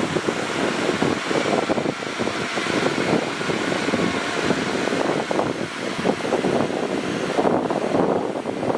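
Bulldozer running steadily while it pushes soil, a continuous rough mechanical noise without breaks.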